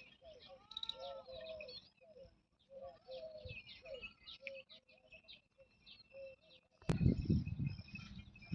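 Doves cooing in short repeated phrases while small birds chirp. About seven seconds in there is a sharp click, followed by a louder low rumbling noise.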